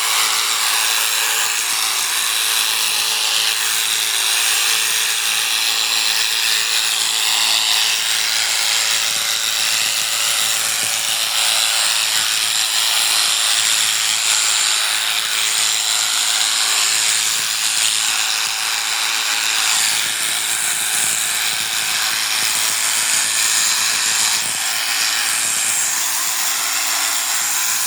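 Electric sheep-shearing clippers running steadily while cutting through a sheep's fleece.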